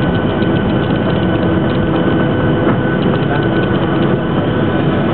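Cabin noise of a Boeing 737-700 on the ground just after landing: steady engine and rolling noise with a faint high whine, and the cabin fittings rattling throughout.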